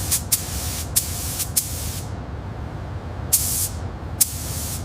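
Repeated short, sharp hisses, like bursts of spray or released air, about seven in all and one a little longer about three seconds in, over a steady low rumble.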